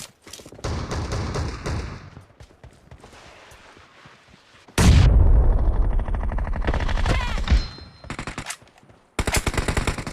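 Video-game gunfire: bursts of shots, then a loud blast about five seconds in that lasts a few seconds, and fast automatic fire starting near the end.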